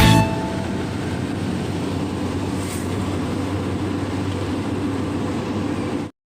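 Steady engine and road noise of a moving vehicle, an even rumble at a constant level that cuts off suddenly near the end.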